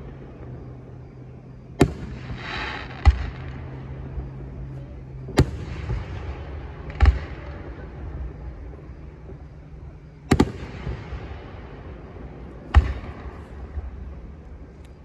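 Fireworks going off: a string of sharp bangs a few seconds apart, several trailing off in a long echo, with a short burst of crackling about two and a half seconds in.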